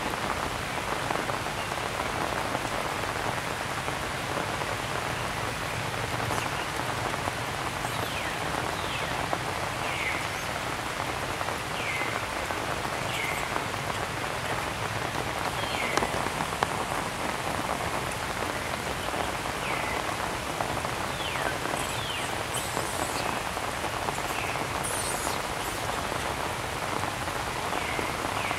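Steady rain falling, with short falling chirps recurring every second or two from about eight seconds in.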